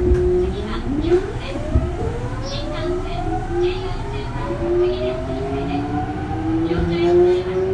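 Early Mitsubishi GTO VVVF inverter and traction motors of a Kintetsu 3200 series train whining as it pulls away and accelerates: several tones rise together, jumping in pitch a few times, over the rumble of the wheels on the rails.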